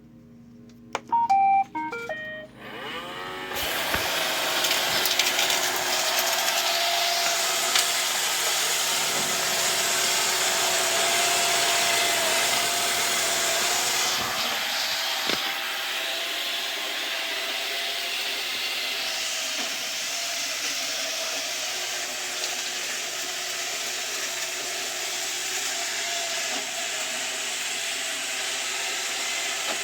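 Roomba robot vacuum sounding a short tune of beeps, then its vacuum motor and brushes starting about three and a half seconds in and running steadily with a loud hiss and a steady whine as it sweeps up metal chips. The hiss drops a little after about fourteen seconds.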